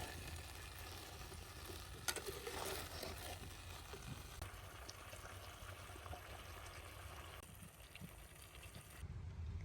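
Spicy chicken wings sizzling as they cook over a wood fire, with a few sharp clicks of a utensil about two seconds in. The sizzle softens after about four seconds and cuts off near the end, leaving a low rumble.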